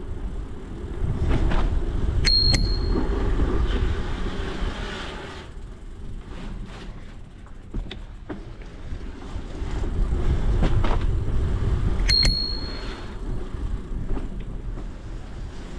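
Bicycle bell rung with two quick dings, then rung the same way again about ten seconds later, each ding a bright ringing tone. Beneath it a low rumble swells and fades twice.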